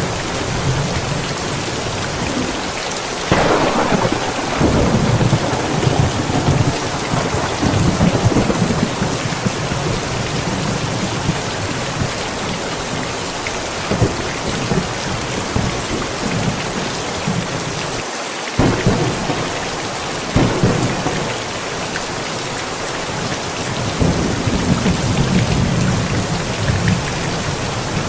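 Thunderstorm: steady rain with rolls of thunder, a long rumble starting about three seconds in and more rumbles past the middle and near the end.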